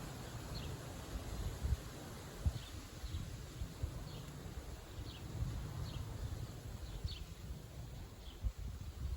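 Strong wind gusting against the microphone in a low, uneven rumble, with a bird repeating a short, high, falling call about once a second.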